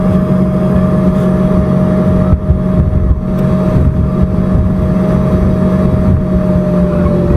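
Cabin noise inside an Embraer ERJ-145 regional jet with its rear-mounted Rolls-Royce AE 3007 turbofans running: a steady low rumble and hum with a constant whine on top.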